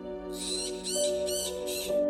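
Soft background music with held notes, over which a bird gives four short, high-pitched calls in quick succession, about half a second apart.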